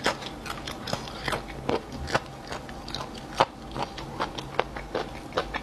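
Close-miked chewing of crunchy chicken cartilage with meat on it, cumin-seasoned: a steady run of sharp crunches and clicks as it is bitten and ground between the teeth.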